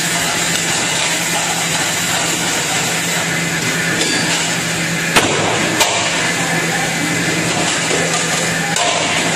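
Commercial dish machine and pre-rinse spray running with a steady hum and a rush of water, while plates are racked; two sharp clacks of plates come a little past five and six seconds in.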